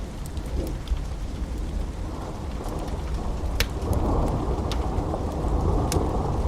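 Wood fire burning in a fireplace: a steady low rumble of flames with scattered sharp crackles and pops, one louder pop about halfway through. The rumble grows a little louder after about four seconds.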